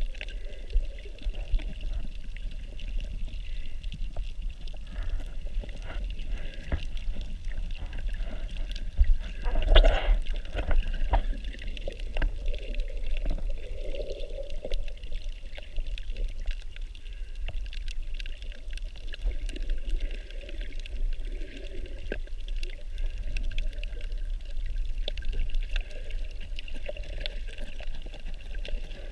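Water sloshing and trickling around a snorkeler's camera, over a steady low rumble, with a louder swell about ten seconds in.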